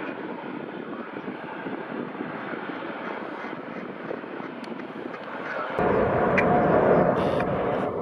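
Steady jet airliner engine noise. About six seconds in it cuts abruptly to a louder jet engine with a steady whine and deep rumble: a Boeing 737-800's CFM56 turbofans.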